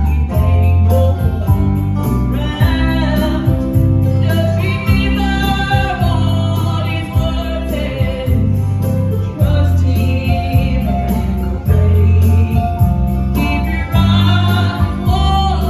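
Gospel song: voices singing over instrumental backing with a strong bass line and a steady beat.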